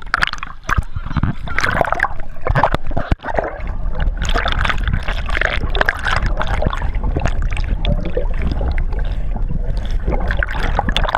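Water rushing and splashing as a speedboat tows an inflatable tube at speed, with a steady low rumble underneath.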